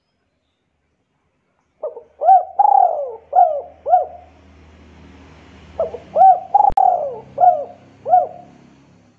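A bird calling in two phrases of about five short, quick notes each, the second phrase about four seconds after the first.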